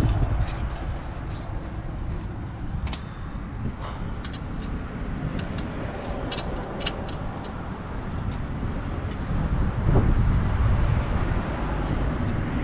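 Scattered light metallic clicks and taps from parts and tools being handled during front strut reassembly, over a steady low background rumble that swells briefly about ten seconds in.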